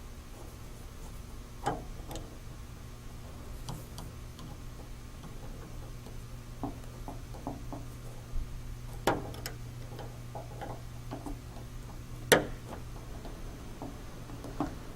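Scattered light clicks and taps of hands and small tools working on truck door hardware, with a few sharper knocks (about two seconds in, near the middle and about three quarters through), over a steady low hum.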